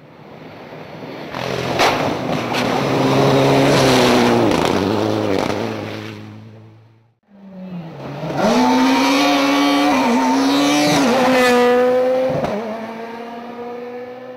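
Two rally cars at full throttle on a stage, one after the other. Each engine rises in level as the car comes past, then fades, its pitch dipping and climbing with the gear changes. The first pass cuts off abruptly about seven seconds in, and the second begins at once.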